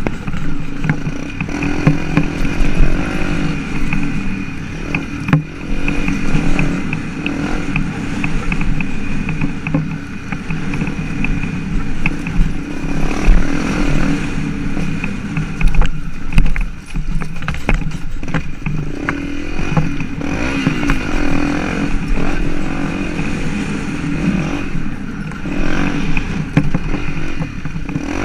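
Motocross motorcycle engine running loud and rough, repeatedly revving up and dropping back.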